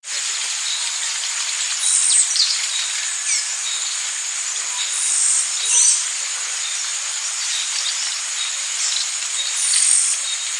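Rainforest ambience: a dense, steady, high-pitched insect chorus, with birds calling over it in several quick falling calls, about two seconds in, around six seconds, and near ten seconds, and short repeated notes in between.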